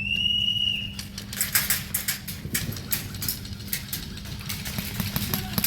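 A whistle blows once for about a second. Irregular, sharp clicking shots of airsoft guns follow, some in quick runs, over a steady low hum.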